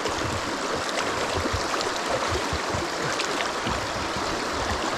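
Fast river current rushing steadily over rocks at a rapid.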